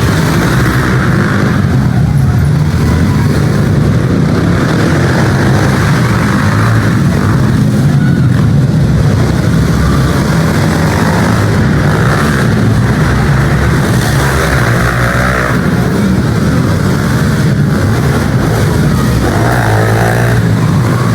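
Pit bike engines running and revving during an arenacross race, a loud, continuous mix of small motorcycle engines, with one engine's revs climbing near the end.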